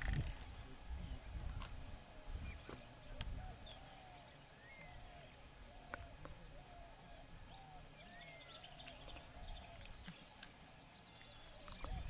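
Faint bird calls: a steady series of short, arched low-pitched notes about twice a second, with scattered higher chirps above them. A low rumble in the first couple of seconds.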